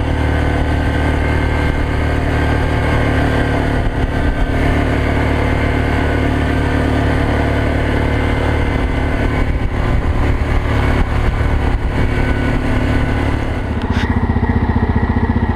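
ATV engine running steadily under way, its note changing about fourteen seconds in.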